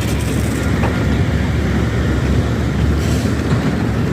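Steady low engine rumble with a constant wash of noise.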